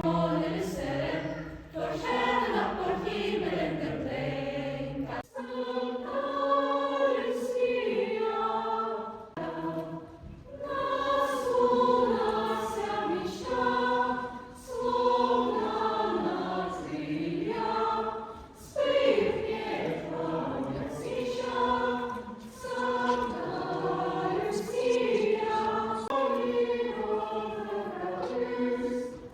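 A choir singing a slow song in Swedish, with a few brief breaks in the singing.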